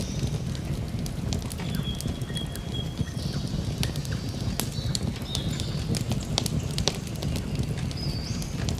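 Campfire burning with a steady low rumble and frequent sharp crackles and pops, with a few short high whistling notes scattered through it.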